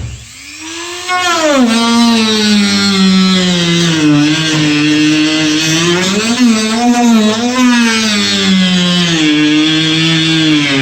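Dremel rotary tool with a small cutting disc cutting through a kayak's deck: a steady high whine that drops out at the start, spins back up within about a second, then sags and recovers in pitch as the disc bites and eases off.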